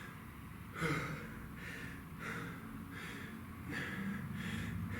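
A man panting hard, quick heavy breaths in and out after an intense kettlebell interval, the loudest about a second in.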